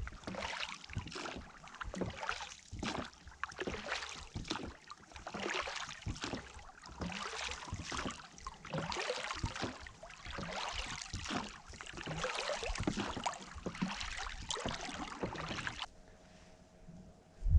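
Small boat on the water: irregular splashing and dripping with scattered knocks of gear against the hull, stopping abruptly near the end.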